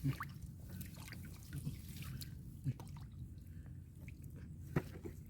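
Water dripping and splashing in small, irregular drops over a steady low rumble, with three sharper drips: one at the start, one a little past halfway and one near the end.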